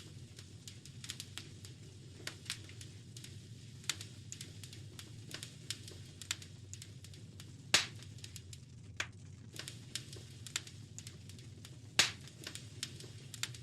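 Wood fire crackling in a fireplace: a steady low rush of burning with frequent small snaps, and two louder pops about eight seconds in and again about four seconds later.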